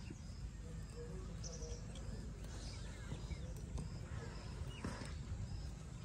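Small birds chirping in short, high, repeated notes, with a few falling whistles, over a steady low rumble.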